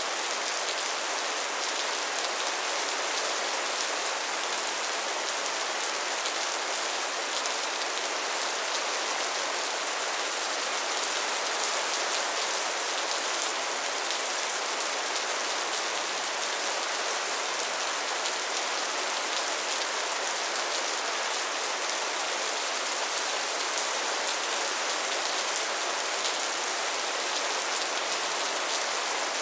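Steady soft rain falling on a surface, a dense even patter of drops with no thunder or other events.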